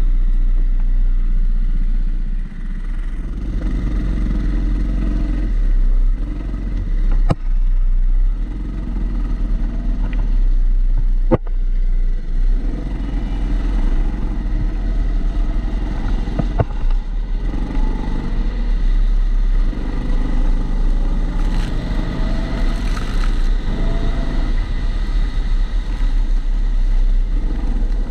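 Go-kart engine running, heard onboard from a camera in a waterproof housing that dulls the sound. Engine speed rises and falls, and a few sharp clicks or knocks come through.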